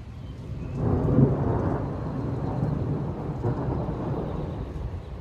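Rolling thunder from a nearby lightning strike: a deep rumble that swells about a second in and rolls on, slowly easing.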